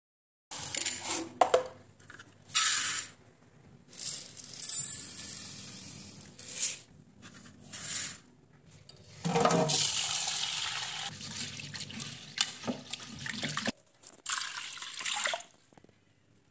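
Dry split lentils (toor and masoor dal) poured into an aluminium pressure cooker in several short pours, the grains rattling onto the metal. From about nine seconds in, water runs into the cooker for several seconds and stops sharply.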